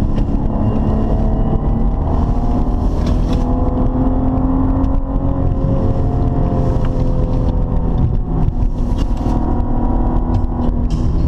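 Maserati Ghibli's engine and the road noise heard from inside the cabin while driving: a constant low rumble under an engine note that rises and eases off gently a few times.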